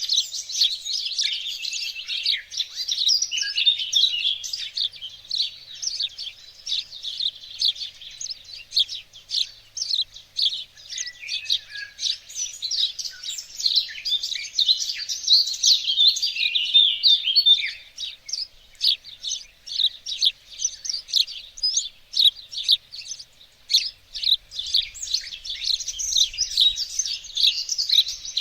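Garden songbirds singing together in a dense chorus of quick high chirps and trills. The chorus thins to scattered chirps for a few seconds about two-thirds of the way through, then fills in again.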